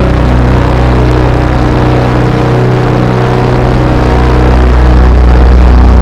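Loud, dense drone music: several held low tones under a thick wash of noise. The deepest tones thin out for a moment about two seconds in, then swell back.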